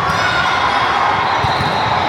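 Volleyballs bouncing and thudding in a busy gym, over a steady din of crowd noise.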